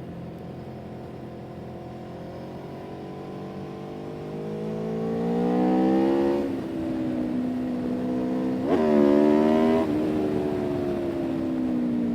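A vehicle engine running under way. Its revs climb, drop sharply about six and a half seconds in as at a gear change, jump briefly near nine seconds, then ease off.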